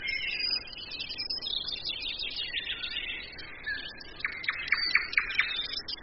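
Several songbirds singing and chirping, with a quick run of about five sharp notes about four seconds in, over a faint steady hiss.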